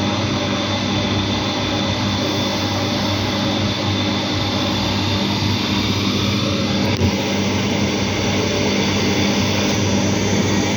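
Bosch washing machine spinning its drum: a loud, steady motor whine over a low hum, growing slightly louder near the end.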